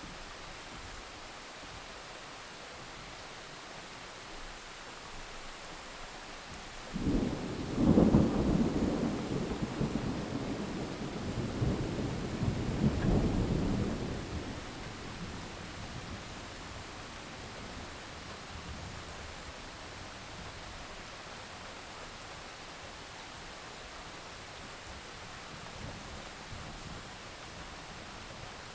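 Steady rain with a thunderclap that breaks in suddenly about a quarter of the way through, then rumbles on with a second swell before dying away several seconds later.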